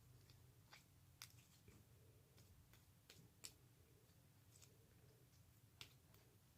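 Faint, irregular clicks and pops of homemade slime being handled and squished by hand, over a low steady hum.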